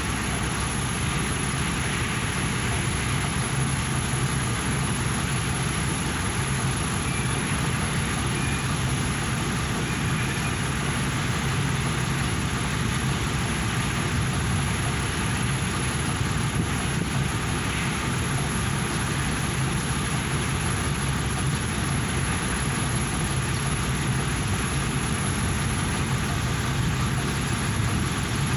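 Engine with newly replaced main bearings idling steadily, running without change in speed.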